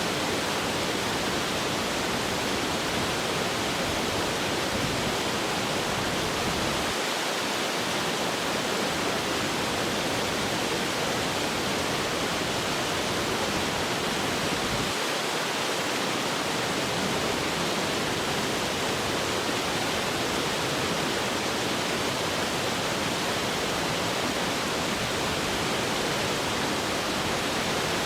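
Rushing water, a steady unbroken hiss.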